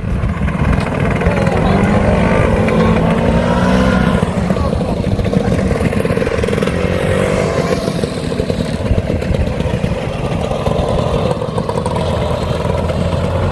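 Vintage motor scooter engine running, its pitch wavering with the throttle.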